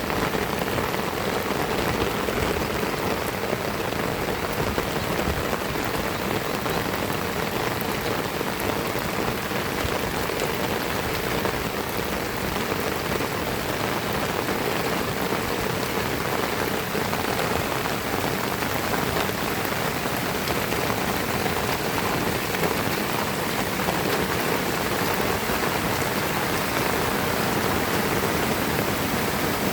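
Heavy rain falling steadily: a dense, even hiss of many drops striking surfaces.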